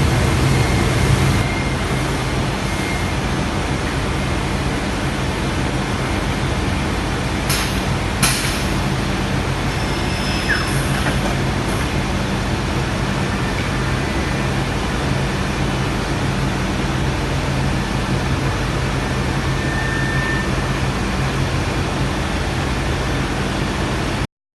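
Bacci FC8CN eight-head CNC contour profiling machine running: a steady mechanical noise with a low hum, two sharp knocks about seven and eight seconds in, and an abrupt cutoff near the end.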